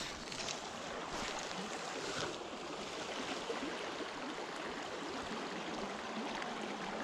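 River water flowing steadily over a riffle, a constant rushing and rippling.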